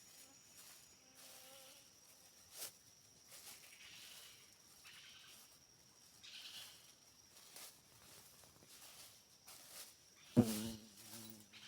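Forest insects making a steady, high-pitched buzzing drone, with scattered faint clicks and one sharp knock about ten seconds in.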